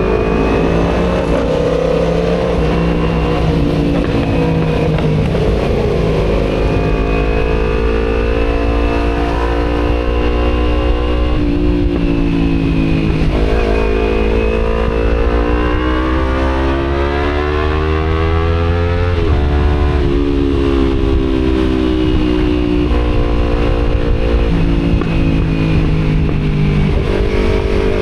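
Kawasaki Z250 parallel-twin engine through an aftermarket Akrapovic exhaust, heard from the rider's seat: revving up and easing off several times, its pitch climbing and then dropping sharply at the gear changes. A low rumble of wind and road noise runs underneath.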